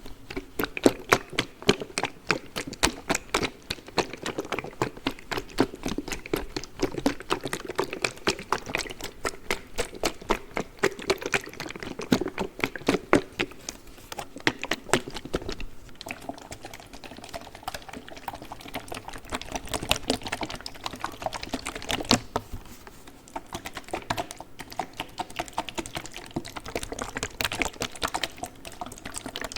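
Fingers and nails tapping, scratching and squeezing a plastic cold pack close to the microphone: a fast, dense run of crisp clicks, a little sparser around the middle.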